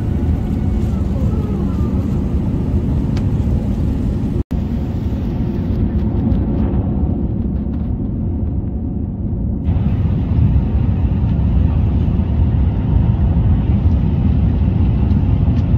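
Steady low rumble of an Airbus A380's engines and airflow heard from inside the passenger cabin, growing slightly louder about ten seconds in. The sound drops out for an instant about four seconds in.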